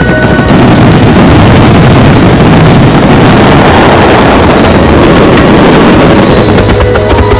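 Fireworks finale barrage: many shells bursting in rapid succession, the reports merging into one continuous loud noise that swamps the accompanying music, which comes back through near the end.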